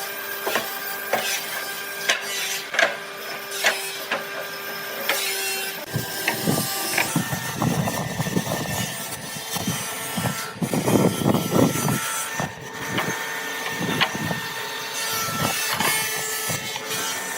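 Woodworking noise, wood being worked by tools. For about six seconds a machine runs with a steady hum and sharp clicks; then rougher, irregular scraping and rubbing of wood takes over.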